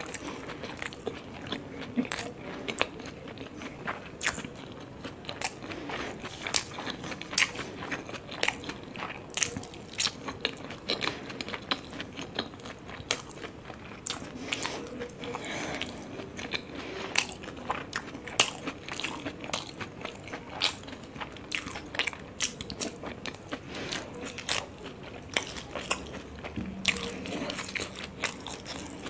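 Close-miked chewing of steamed momo dumplings dipped in red chutney: steady wet chewing with many sharp mouth clicks and lip smacks, dozens over the stretch.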